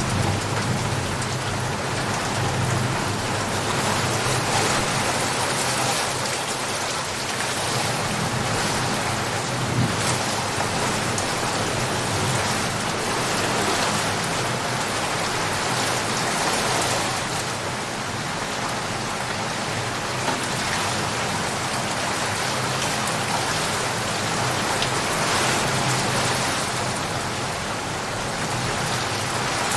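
Steady rain falling and pattering on surfaces, with a low rumble that swells and fades a few times.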